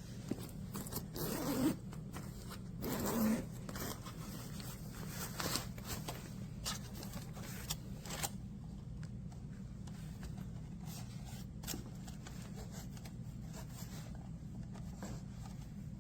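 Small PTC ceramic space heater's fan running with a steady low hum, much like a computer fan. Two rustling, scraping noises about one and three seconds in, then scattered light clicks.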